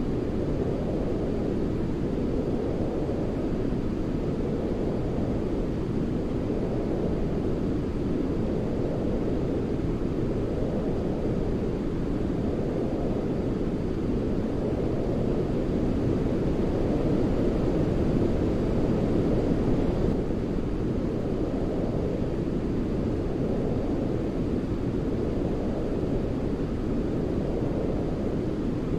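Steady, deep white-noise track of the kind played to soothe a baby to sleep, its hiss mostly low-pitched, like brown noise. It swells gently every few seconds and grows a little louder past the middle.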